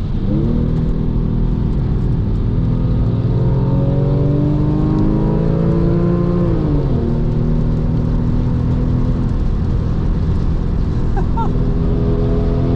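Porsche 996.2 Carrera 2's flat-six with a valved sport exhaust, heard from inside the car, pulling under load with its pitch climbing slowly, then dropping sharply about seven seconds in as the driver lifts off, and building again near the end. A steady hiss of tyres on the wet track runs underneath.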